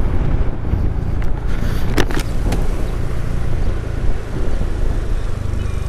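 Motorcycle running on the road, a steady low rumble with two sharp knocks about two seconds in.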